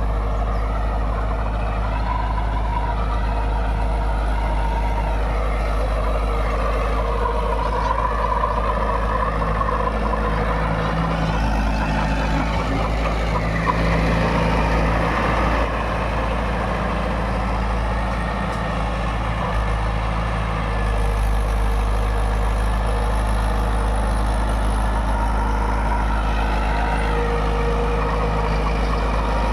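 Mahindra 475 DI tractor's diesel engine running steadily while working a rotavator, its note shifting a little partway through.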